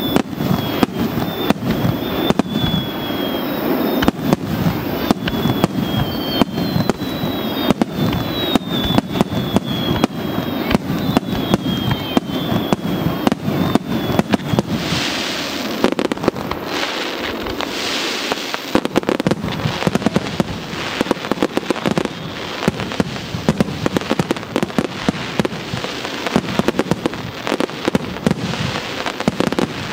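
A dense fireworks barrage: shell bursts and sharp pops follow one another several times a second with no letup. A faint falling whistle repeats through the first half.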